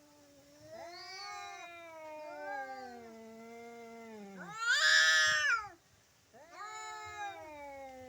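Two domestic cats yowling at each other in a fight standoff: long, wavering caterwauls, often overlapping, one low and one higher. About five seconds in, one lets out a short, loud, harsh screech, then the yowling resumes after a brief pause.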